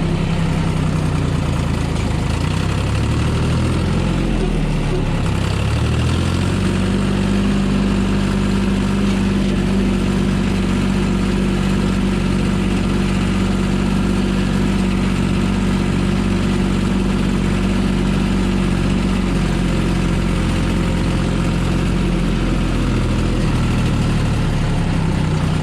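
Tractor engine running, its speed dipping and coming back up a few seconds in, then holding steady with an even, pulsing beat.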